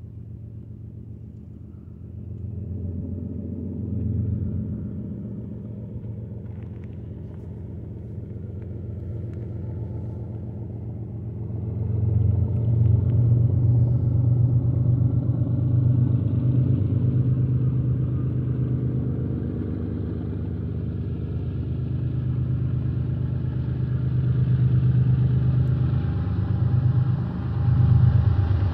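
Distant BNSF GE ES44 diesel locomotives hauling a double-stack container train, a low rumble that grows louder as the train approaches.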